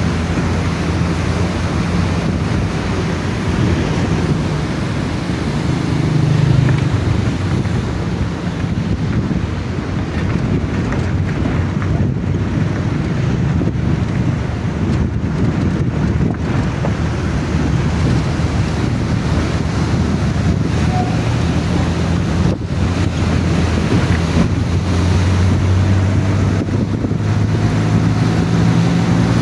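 Neelam River water rushing, a loud, steady roar, with wind buffeting the microphone.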